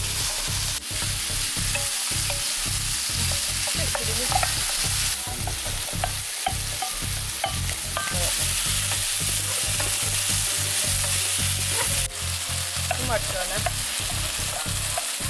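Chicken and vegetables sizzling in an electric frypan, stirred and scraped with a wooden spoon.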